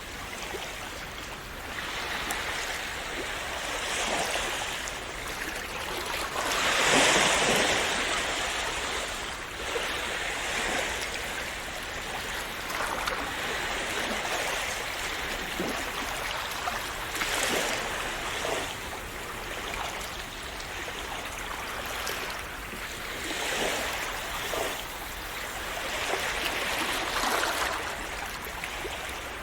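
Calm sea waves splashing and washing in: a continuous rush of water that swells and eases every few seconds, loudest about seven seconds in.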